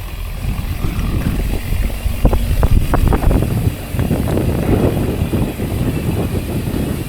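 Mountain bike rolling fast over wet, rooty singletrack: steady rumble of tyres and frame, with a cluster of sharp rattles and knocks from the bike about two to three seconds in.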